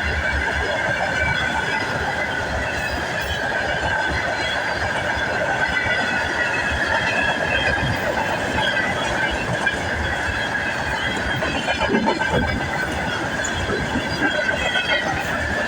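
Train running, with a steady high wheel squeal over the rumble of the cars; the squeal's pitch drifts slightly lower.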